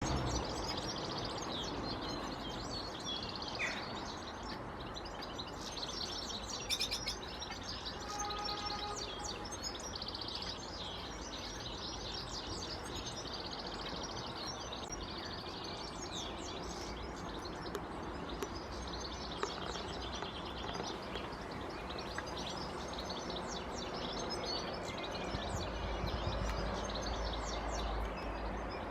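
Small garden birds chirping and calling in quick, repeated short notes over a steady background rumble of outdoor noise, which grows louder near the end.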